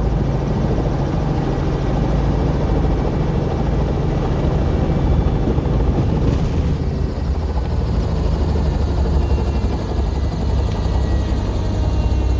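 Helicopter in flight: steady rotor and engine noise, a deep, even rumble.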